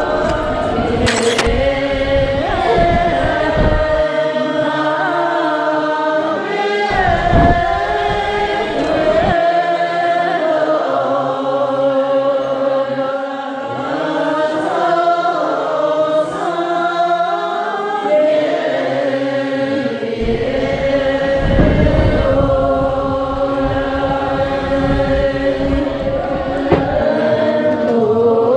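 Buddhist monks' ceremonial chanting: many voices in unison holding long, steady tones. A low rumble comes and goes beneath it.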